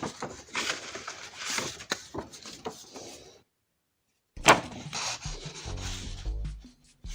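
Rubbing and scraping noise that stops dead for about a second, then resumes with a sharp knock; low steady tones come in near the end.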